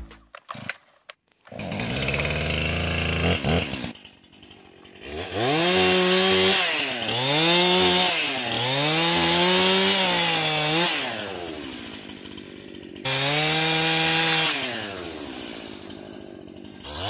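Chainsaw running at low revs for a couple of seconds, then revved up again and again as it cuts into a fallen tree, the engine note rising and falling every two seconds or so. It drops out briefly about twelve seconds in, then revs up once more.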